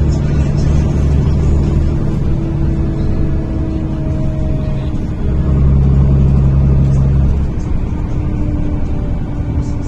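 Cabin of a NefAZ-5299 city bus on the move: a steady, loud engine and drivetrain drone, its pitch and strength shifting a few times as the bus pulls and eases off.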